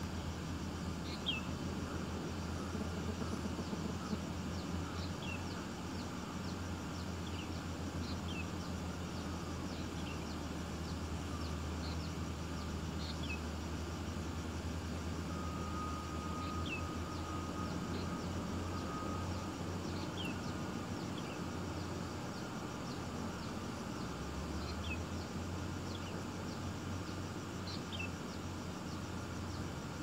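Small bird chirping: short, high notes that drop in pitch, one every second or two, over a steady low hum.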